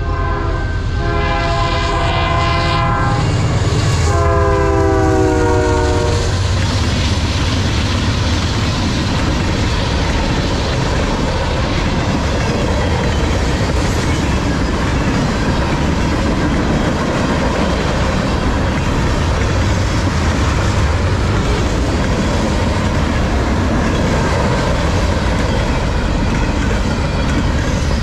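Freight locomotive horn blowing for a grade crossing: two long blasts, then a third about four seconds in that drops in pitch as the locomotive passes. A long train of freight cars then rolls steadily past.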